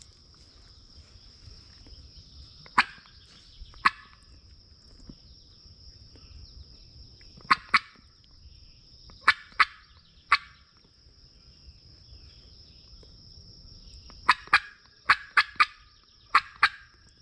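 Sharp, short cutts on a hand-worked turkey call, sounded in quick groups to strike a gobble, with a fast run of cutts near the end. A steady high drone of insects underneath.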